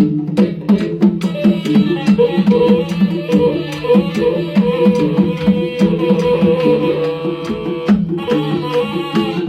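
Batak gondang bolon ensemble playing: drums beat a fast, even rhythm while the sarune bolon, a double-reed oboe, plays a held, nasal melody that comes in about a second in.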